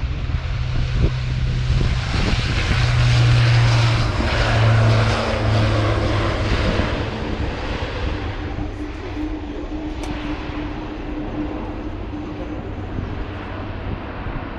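Airbus A400M's four turboprop engines at high power, a deep steady propeller drone with a rushing noise that swells as the aircraft comes closest a few seconds in, then slowly fades as it moves away.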